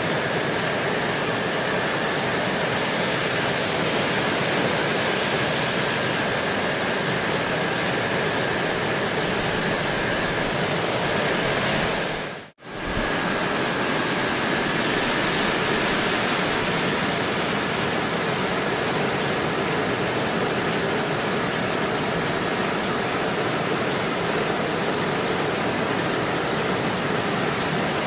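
Steady rain falling. It dips out to silence for about half a second a little before halfway through, then comes straight back.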